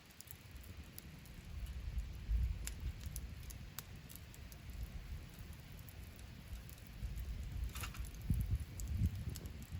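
Wood campfire crackling, with scattered sharp pops and one longer crackle about eight seconds in, over a low rumble.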